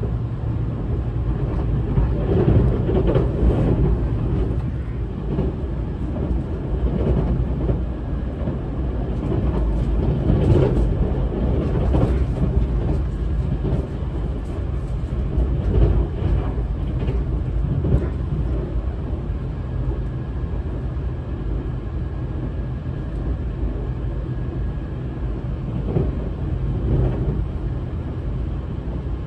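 Tobu 200 series limited express electric train running at speed, heard inside the passenger car: a steady rumble of wheels and bogies on the rails, with a few louder knocks from the running gear.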